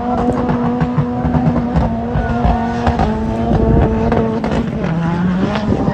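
A drift car's engine held at steady high revs for about five seconds. Its pitch dips briefly near the end, then climbs back.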